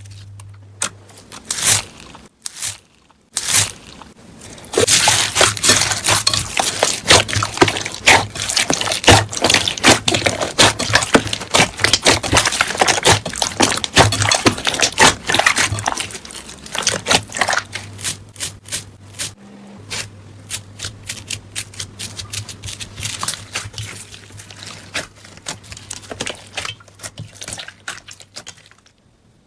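Slime being squeezed and worked by hand: a dense run of small wet clicks and pops, heaviest in the first half and thinning out later, over a low steady hum.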